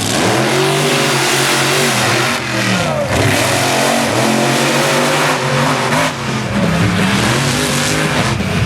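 Monster truck engines revving hard, their pitch rising and falling several times over a dense wash of engine noise.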